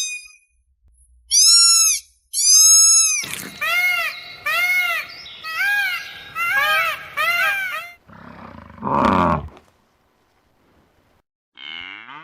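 A series of animal calls: two loud, high, arched squealing calls, then a run of repeated, pitched, arching cries. These are followed by one coarse roar-like call about eight seconds in and a brief faint sweep near the end.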